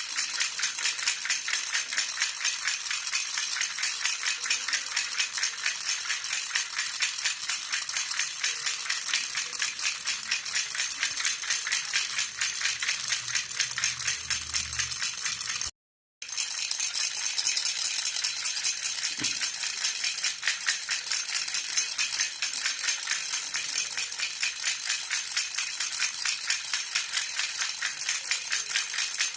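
A silver jhunjhuna baby rattle shaken fast and evenly, making a continuous bright metallic jingle. It cuts out completely for a moment about halfway through, then carries on.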